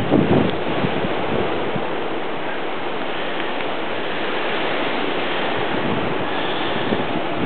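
Steady wind noise in a snowstorm, blowing across the microphone, with a few low gusts buffeting it at the start.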